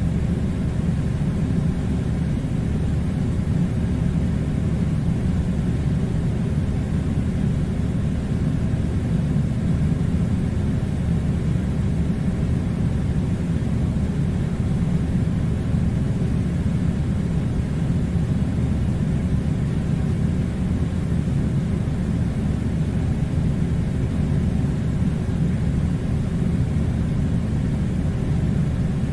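A steady, unchanging low rumble with no distinct events.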